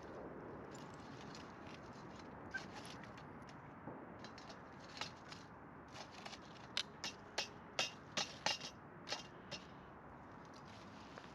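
A faint steady hiss, with a quick run of about a dozen sharp, irregular clicks or snaps over a few seconds past the middle.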